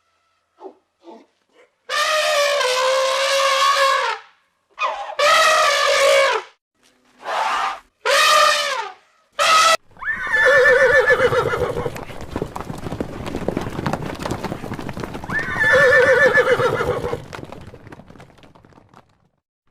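Loud animal calls: several drawn-out calls in the first half, then two quavering calls over a steady rumbling noise in the second half.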